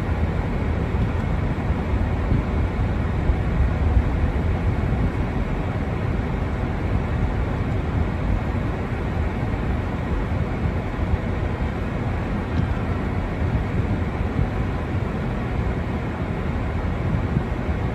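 Wind of a snowstorm buffeting the microphone: a steady low rushing rumble that churns unevenly throughout.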